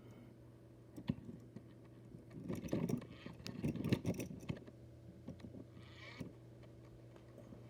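Plastic bags rustling and crinkling as small diecast motorcycle models are handled and pulled out of them, with scattered light clicks, busiest from about one to four and a half seconds in. A steady low hum runs underneath.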